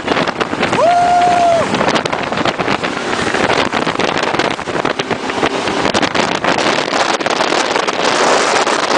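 Jet boat running at speed: a steady loud rush of engine, water and wind noise, with a short held steady tone about a second in.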